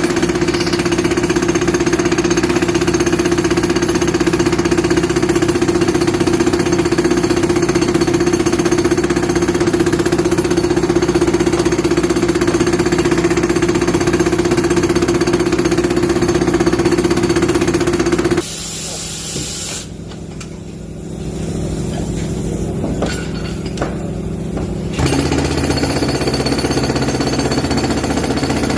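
Tractor-mounted hydraulic breaker hammering continuously into a masonry wall. About two-thirds of the way through it stops for roughly six seconds, leaving the tractor's engine running, then starts hammering again near the end.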